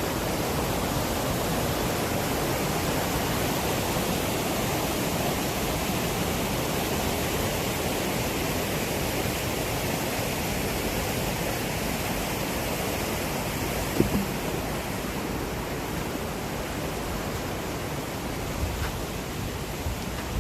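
Steady, even rushing noise, with a single sharp click about fourteen seconds in.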